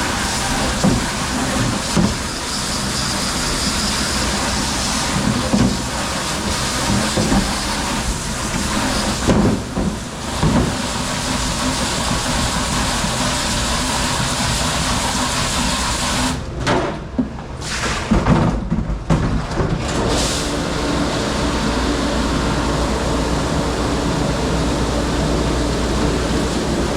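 Commercial kitchen dish room: the steady running noise of dishwashing machinery and water, with dishes and racks clattering now and then. The noise breaks up for a few seconds about two-thirds of the way through, then settles back into a steady hum.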